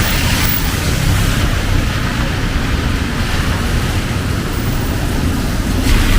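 Heavy rain pouring steadily, a dense hiss with a low rumble underneath, growing a little louder near the end.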